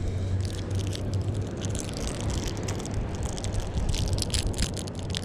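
Wind buffeting the microphone as a steady low rumble, with scattered crackles and rustles over it.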